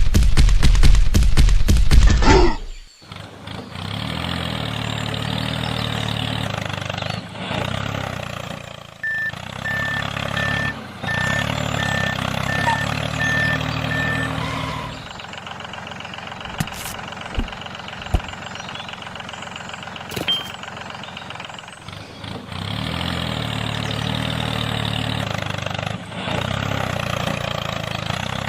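A vehicle engine running steadily after a loud, rapidly pulsing start, with a row of about seven short beeps in the middle, like a reversing alarm.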